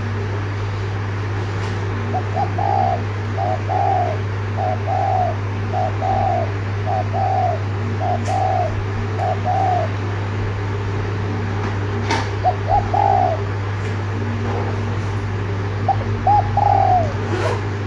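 Spotted dove giving its rapid 'thúc gù' coo: runs of short, arched coos, about one a second, in three bouts with pauses between, over a steady low hum.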